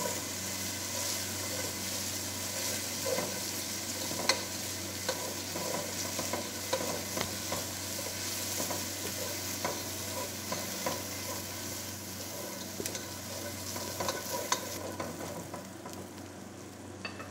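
Minced ginger, garlic and green chillies sizzling in hot oil as they are sautéed in a nonstick pot, with a plastic slotted spoon stirring and scraping the pan bottom in scattered clicks. The sizzle dies down near the end as the stirring stops.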